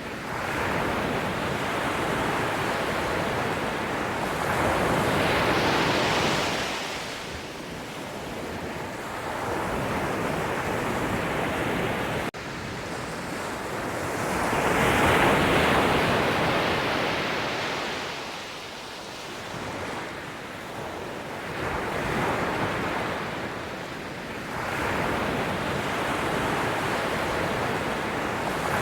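Sea waves breaking and washing up, the rush of surf swelling and ebbing with a big surge roughly every eight to ten seconds. There is an abrupt break in the sound about twelve seconds in.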